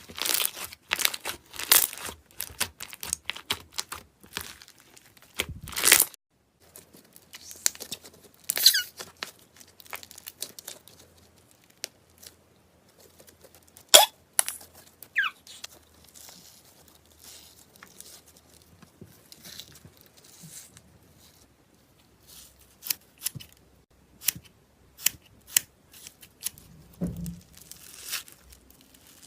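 Slime being squished and stretched by hand: irregular sticky crackles and pops, with a few short squeaks.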